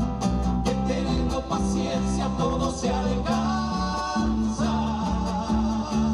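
Band music with guitar and bass over a steady beat, in a Latin American popular-folk style.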